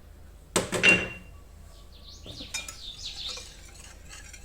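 Kitchenware clinking against a mixing bowl: two sharp knocks with a short ring about half a second in, then faint scraping as melted butter is added to the dry pancake ingredients.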